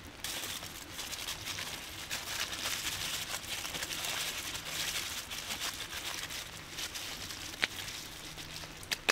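Rain pattering with a campfire crackling: a dense, steady crackling hiss, with two sharp snaps near the end.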